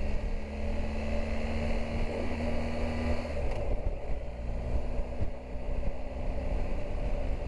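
Motorcycle engine running as the bike rides off, its note holding steady and then dropping about three seconds in, over steady road and wind noise.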